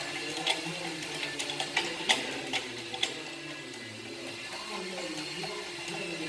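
Irregular clicks and clinks of hand tools on a car's rear engine mount, about seven in the first three seconds, then fewer.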